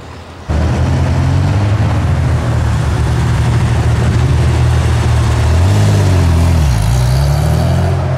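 Porsche 911 Turbo's air-cooled flat-six running loud at low revs as the car pulls away. It comes in abruptly about half a second in, and its pitch dips and rises a couple of times near the end.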